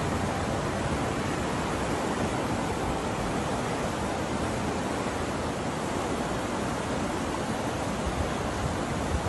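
Swollen floodwater of a river rushing steadily, an even, unbroken rush of noise.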